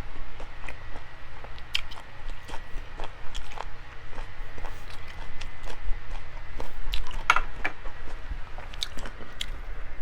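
A person chewing and biting meat: pork belly and smoked duck. Many short, sharp smacking and crunching clicks come at irregular intervals.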